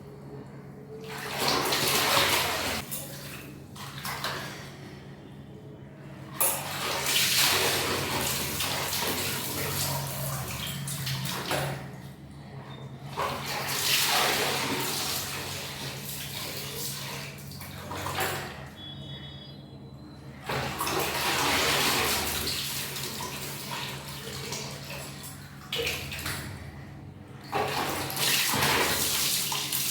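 Water splashing and streaming as long hair is flipped into and out of water, in spells of a few seconds that start suddenly and die away, with short breaks between them.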